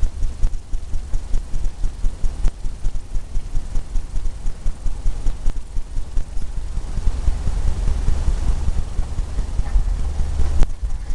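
Paintbrush dabbing oil paint onto canvas in quick, rhythmic strokes, about five a second, with a few sharp clicks.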